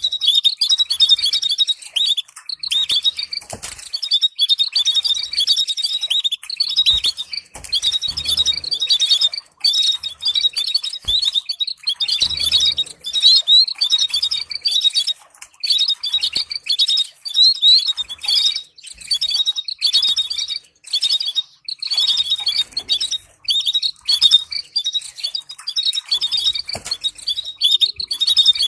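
Domestic canary singing: fast rolling trills and chirps in a continuous stream of phrases, broken by brief pauses.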